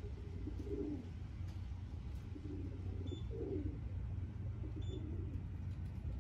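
Racing pigeons cooing, several low warbling coos about a second apart over a steady low rumble.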